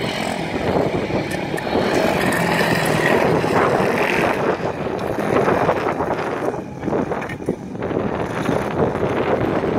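Speedway bike engines running and revving as a rider rides the track, with wind buffeting the microphone.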